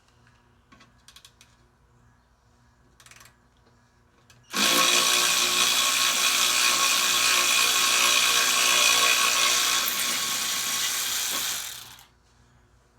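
A handheld power tool runs steadily for about seven seconds, turning a bolt, then winds down. A few light clicks come before it.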